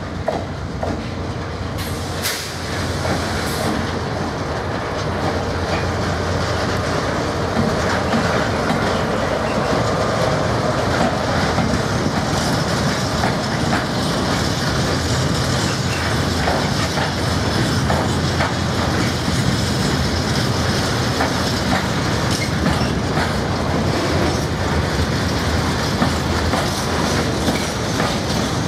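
Freightliner Class 70 diesel locomotive passing slowly, followed by a long freight train of open box wagons and ballast hoppers rolling by, wheels clicking over the rail joints. The sound grows louder about two seconds in and then holds steady as the wagons roll past.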